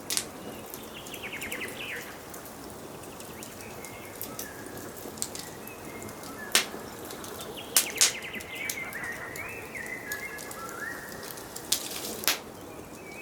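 Wood fire crackling with a steady hiss and several sharp pops, the loudest a pair about eight seconds in. Songbirds sing in the background: a trilled phrase near the start and a run of warbling notes past the middle.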